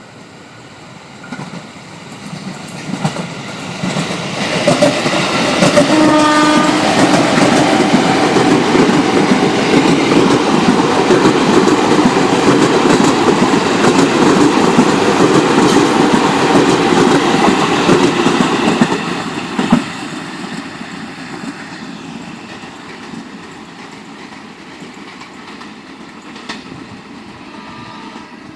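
Electric commuter train coming closer and giving a short horn blast about six seconds in, then running past close by with a steady rumble of wheels on the rails. The sound drops off sharply after about nineteen seconds as it moves away. Near the end a faint horn call sounds from another train further off.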